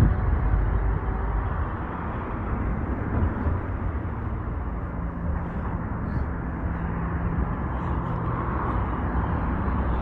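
Strong wind buffeting the microphone outdoors, a heavy low rumble that is strongest in the first second and then carries on steadily.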